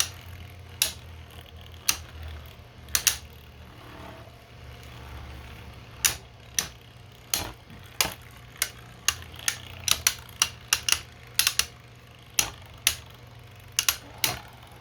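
Two 3D-printed plastic beyblades clashing as they spin in a stadium. Sharp clacks come at irregular intervals, more thickly a little past the middle, over a steady low hum.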